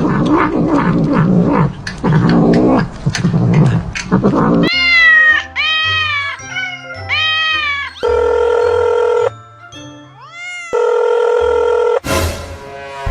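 Cat-meme sound clips over music: a cat meows four times in a row about five seconds in, each call rising and falling in pitch, followed by long held musical tones.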